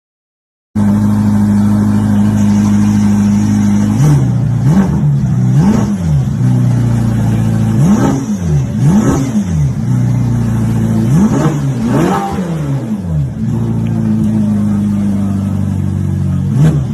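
Ferrari twin-turbo V8 on straight pipes idling, then blipped in quick revs that rise and drop back, mostly in pairs, several times. It starts suddenly about a second in.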